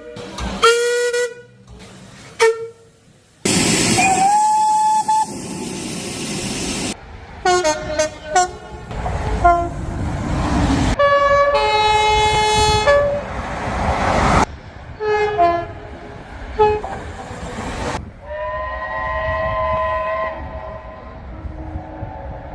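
A rapid series of train horn and whistle blasts from different trains, cut one after another: short toots, a whistle that slides up and holds over a loud hiss of steam, and several long multi-note horn chords.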